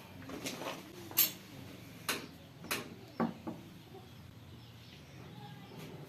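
Irregular sharp clicks and knocks of metal tools and parts being handled during a tractor gearbox repair, about eight in six seconds, the loudest a little after one second in.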